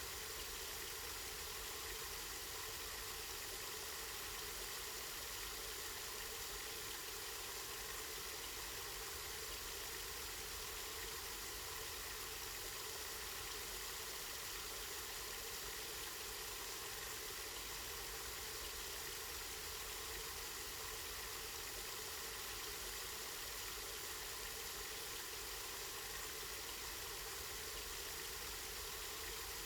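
Water running steadily from a spring, an even hiss of flowing water with a low rumble underneath.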